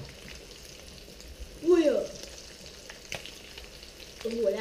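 Breaded bass fillets frying in hot oil in a skillet: a steady sizzle, with a few light clicks as a utensil turns the pieces. A brief voice sound cuts in about two seconds in.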